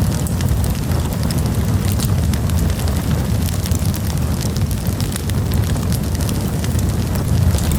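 Wood campfire burning: a steady low rumble of the flames with frequent small crackles and pops.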